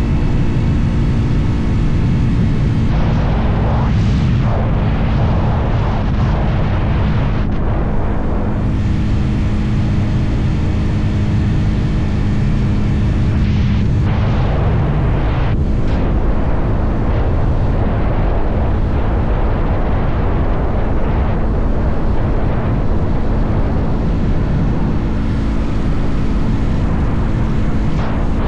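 Motorcycle engine running at a steady cruising speed, with heavy wind rumble on the helmet or bike-mounted microphone.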